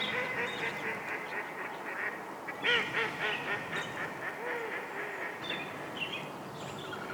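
A flock of geese honking, a rapid run of short calls one after another, loudest a little under three seconds in, with a steady outdoor hiss behind them.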